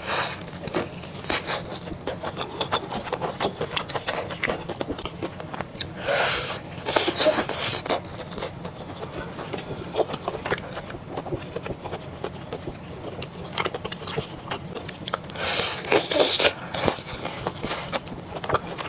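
Close-miked eating sounds: a person chewing, with many small wet clicks. There are two longer, louder stretches of mouth noise, about six seconds in and again near fifteen seconds.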